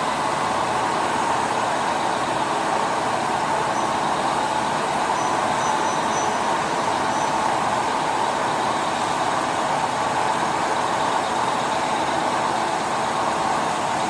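CNC lathe running with a steady, even machine noise that holds unchanged throughout.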